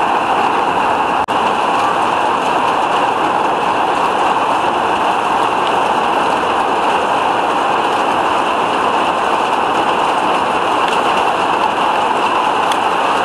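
Heavy downpour of rain: a steady, loud hiss of rain falling, with a brief dropout about a second in.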